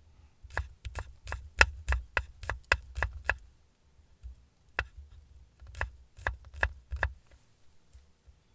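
Knife chopping food on a cutting board: a quick run of sharp strikes, about three or four a second, then a pause and a second shorter run.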